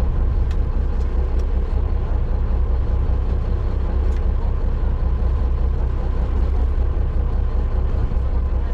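A fishing boat's engine running steadily with a loud, even low rumble.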